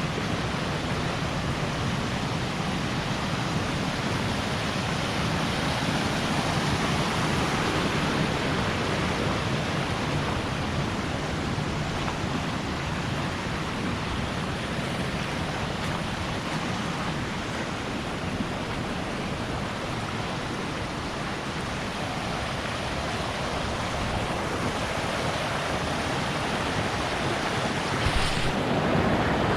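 Steady rush of falling water from Shiraito Falls, a wide curtain of many thin cascades pouring over a rock face. A brief louder gust of wind noise on the microphone comes near the end.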